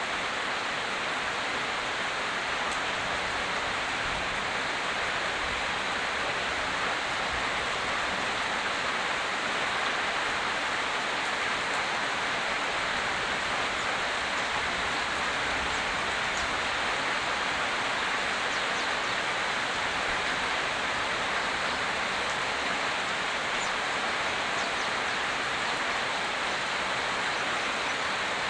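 Steady rain falling, an even hiss that does not change, with a few faint drop ticks.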